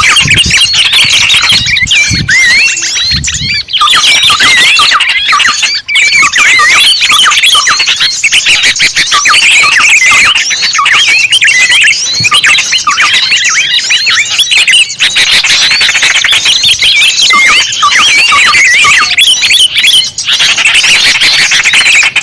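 Dense, loud chatter of many small birds calling at once, with quick chirps and trills crowding over one another with hardly a pause. This is a bird-lure recording meant to draw small birds in.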